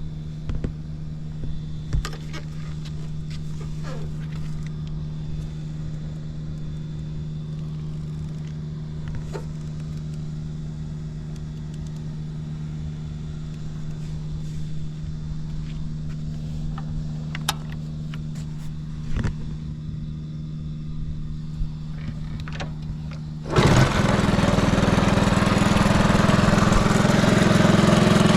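Honda C70 Cub's small single-cylinder four-stroke engine idling steadily, with a few light clicks. About 23 seconds in it suddenly gets much louder and higher as it is revved up and held there, pulling up cleanly with no abnormal noise.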